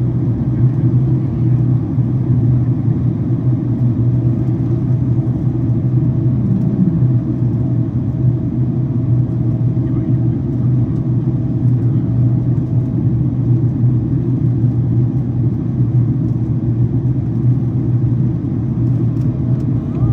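Steady cabin noise of a Boeing 767-400ER descending: a constant low drone of the engines and airflow, with a faint steady tone above it.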